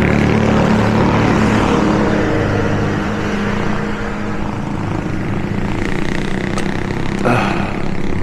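A motor vehicle's engine running close by, a steady low hum with road noise that eases slightly toward the end.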